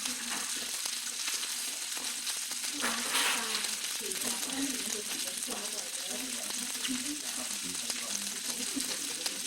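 Grilled pork sizzling on a hot plate: a steady, even hiss throughout.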